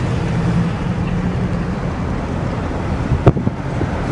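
A car's engine and road noise heard from inside the moving car: a steady low hum, with one sharp knock a little over three seconds in.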